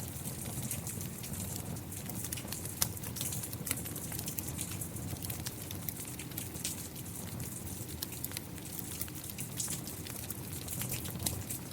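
Steady rain pattering together with a wood fire crackling, with many sharp, irregular pops and ticks over a continuous low rumble and hiss.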